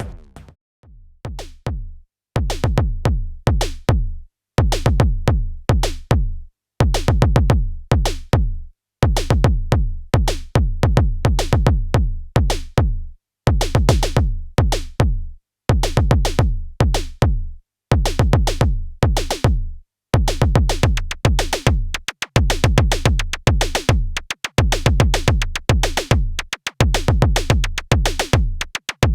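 Modor DR-2 digital drum synthesizer playing an improvised electronic beat: a deep bass drum under fast, dense clicking percussion. It comes in repeating phrases of about two seconds, each cut off by a brief gap of silence, after a sparser, quieter first two seconds.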